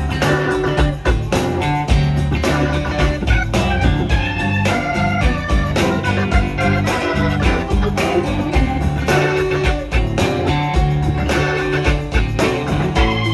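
Blues band playing an instrumental break, with an organ to the fore over a steady drum beat.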